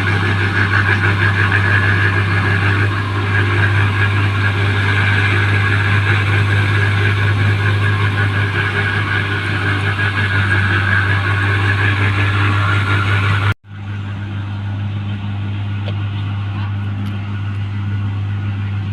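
New Holland 1545 rice combine harvester running steadily with a deep, even engine hum. The sound cuts out for an instant about two-thirds of the way through, then carries on a little quieter.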